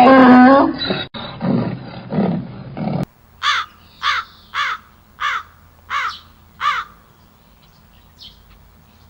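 An animal's loud, drawn-out pitched call and a few shorter calls, then, after an abrupt cut, a bird giving six harsh, falling calls at an even pace, about one every half second.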